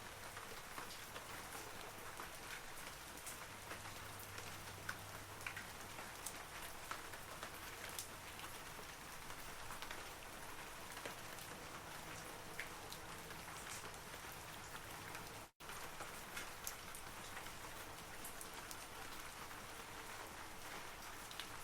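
Steady rain falling on forest trees: an even hiss with scattered close droplet ticks. The sound cuts out for a split second about fifteen seconds in, then carries on.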